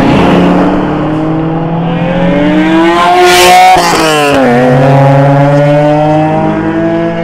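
A car engine accelerating hard: its pitch climbs, drops sharply at a gear change about four seconds in, then climbs again. A brief rush of noise comes just before the shift.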